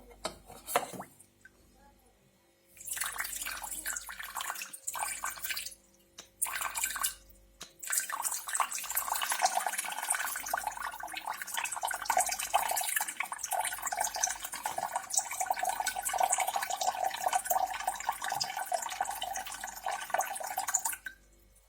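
Water pouring from a kettle's spout, slowly. A few clicks come first, then a pour of about three seconds, a short break, and a long steady pour from about eight seconds in that stops just before the end.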